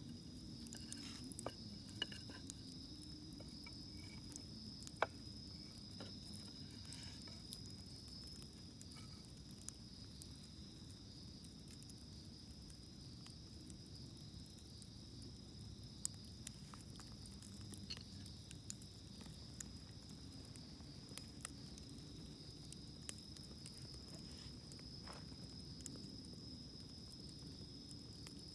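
Wood campfire crackling with scattered sharp pops, the loudest about 2, 5 and 16 seconds in, over a steady high-pitched insect chorus.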